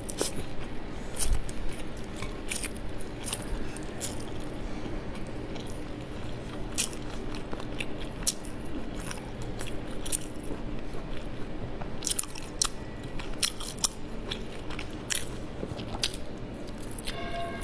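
Close-miked chewing of sticky glutinous rice dumplings (zongzi), with wet smacking and many irregular mouth clicks.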